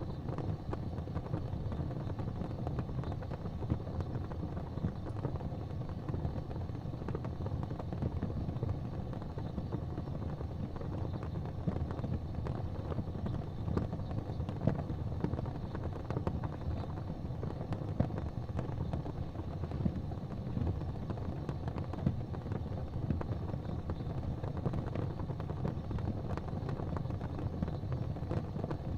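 Fire crackling in a fireplace: frequent small pops and snaps over a steady low rumble of flames.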